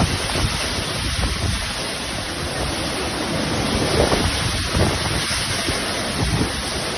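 Steady rushing noise of water, with wind buffeting the microphone.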